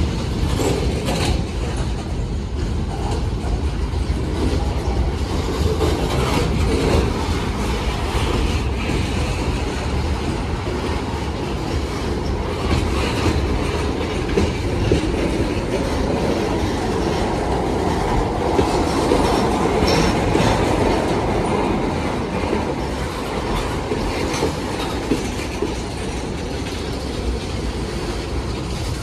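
A train running along the rails with a steady rumble and a scatter of faint clicks from the wheels.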